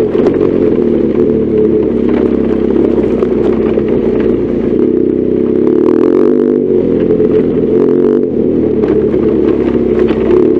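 BMW R1200GS Adventure's boxer-twin engine running under way, its pitch rising and falling with the throttle, with scattered clattering knocks.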